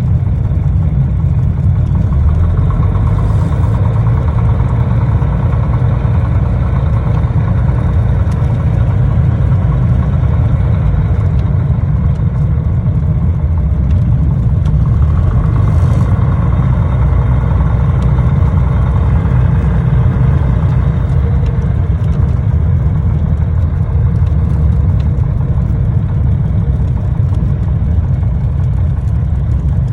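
Small plane's engine and propeller droning loudly and steadily, with no change in pitch or level.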